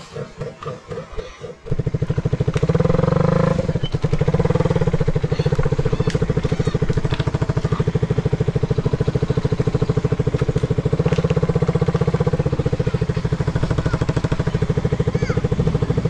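Motorcycle engine running close by under the rider, a fast, even throb. It starts as a slower, quieter pulsing, jumps suddenly to the louder steady run about two seconds in, and swells briefly a second or so after that.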